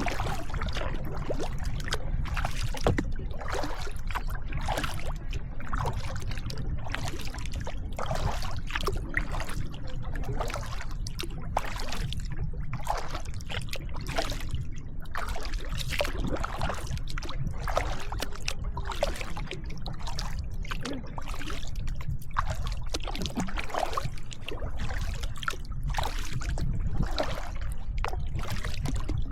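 Kayak paddling: the paddle blades splash in and out of the water with repeated strokes and drips, over a steady low rumble.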